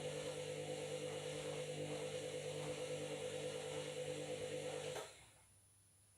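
Front-loading washing machine on a fast spin: a steady motor whine over the rush of the drum. It cuts off suddenly about five seconds in.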